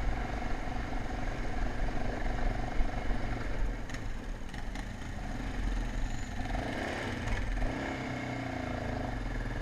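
Motocross bike engine running, its pitch shifting a little about two thirds of the way through.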